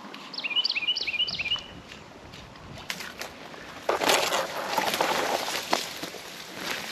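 A bird calls near the start, four quick repeated high notes, each falling in pitch. About four seconds in comes a louder stretch of rustling, splashing noise lasting about two seconds, with scattered clicks around it.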